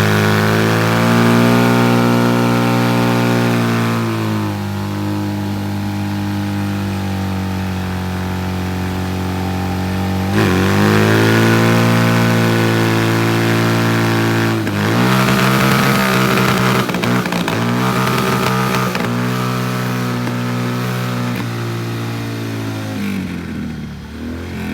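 Motorcycle engine held at high revs during a burnout, its pitch steady for several seconds at a time. The revs drop about four seconds in and climb back about ten seconds in. From about fifteen seconds they bounce unevenly, then fall away near the end.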